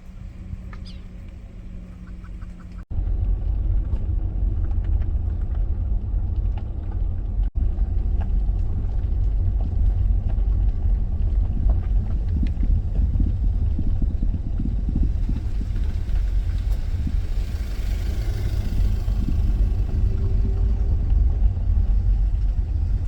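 Low, steady road and engine rumble of a Dodge Grand Caravan minivan on the move. The rumble breaks off abruptly twice in the first eight seconds, and a hiss swells and fades about two-thirds of the way through.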